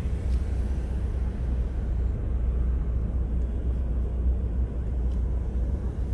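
Steady low rumble of a vehicle driving, engine and road noise.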